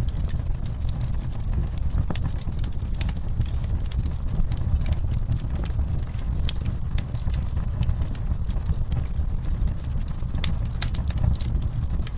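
Wood fire burning in a fireplace, crackling with irregular sharp pops over a steady low rumble, mixed with the even hiss of falling rain.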